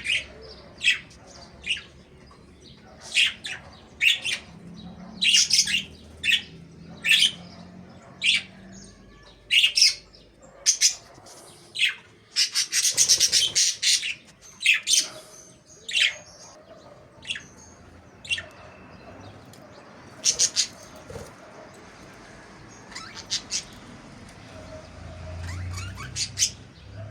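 Budgerigars chirping and squawking in short, scattered calls, with a longer run of rapid chatter about halfway through.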